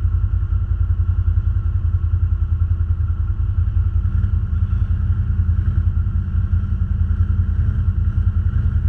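ATV engine running steadily at low revs with a fast, even pulsing beat, close to the microphone.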